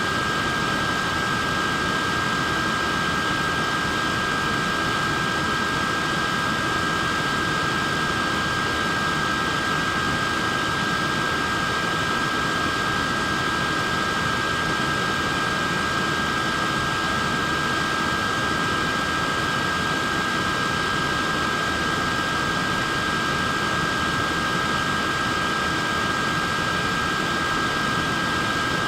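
Wearable neck fan running steadily: a constant rush of air with a steady high whine from its small motor and blades.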